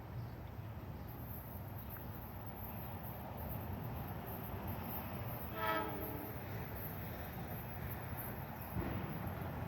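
Train running with a steady low rumble, and one short horn blast a little after halfway through.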